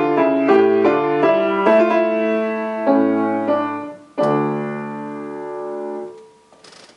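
Piano played solo: a run of notes, then a final chord struck about four seconds in and held until it dies away around six seconds. A faint rustle follows near the end.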